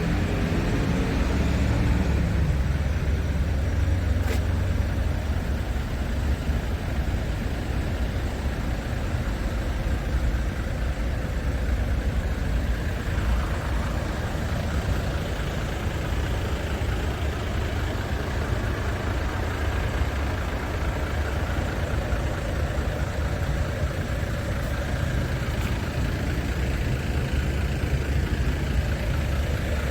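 Scania R450 truck's 13-litre inline-six diesel engine running steadily at low revs with a deep, even throb. Its pitch settles down in the first couple of seconds, and there is a single short click about four seconds in.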